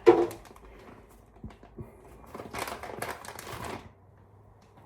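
Battered chicken nuggets being put into a deep-fat fryer basket: scattered light clicks and taps, with a denser run of rustling and clatter about two and a half seconds in.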